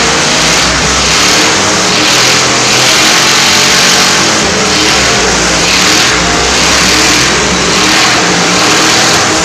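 Loud truck engines revving, their pitch rising and falling, with a swell roughly once a second over a steady low rumble.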